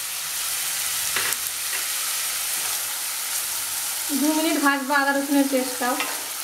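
Onion paste with ginger-garlic paste sizzling in hot oil in a non-stick kadai, stirred with a wooden spatula. A voice speaks briefly about four seconds in.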